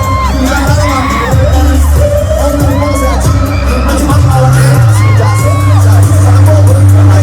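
Live K-pop stadium concert music over a big PA, recorded from among the audience: heavy bass, percussion hits and sung vocals, with the crowd audible underneath. The bass gets heavier after about four seconds.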